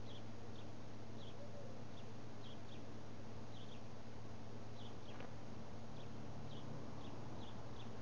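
Small birds giving short, high chirps, scattered irregularly at about two a second, over a steady low hum.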